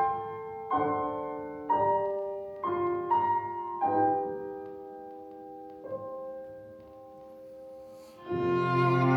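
Piano playing slow, separate chords in classical chamber music, each struck and left to ring and fade, growing quieter through the middle. About eight seconds in, the cello and violin come in loudly with sustained bowed notes.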